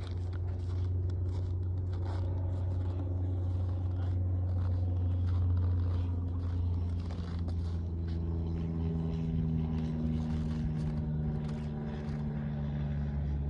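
A motor vehicle's engine running steadily, its pitch shifting a little in the second half, with faint scrapes and rustles over it.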